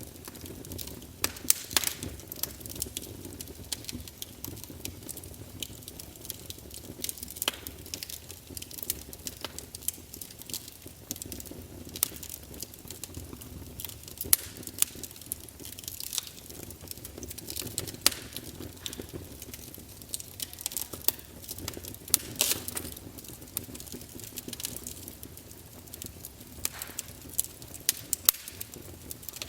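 Wood fire burning in a fireplace: logs crackling with irregular sharp pops and snaps over a low, steady rush of flame.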